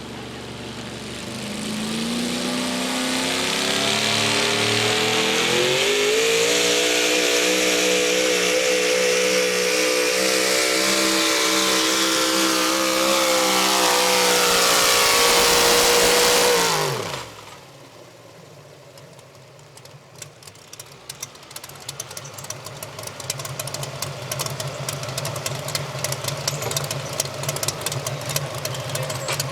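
Modified four-wheel-drive pulling truck engine making a full-throttle pull against the sled. It winds up over the first few seconds, holds a high, steady scream for about ten seconds, then drops off sharply about seventeen seconds in as the pull ends. A quieter, lower engine sound with fast rattling clicks follows.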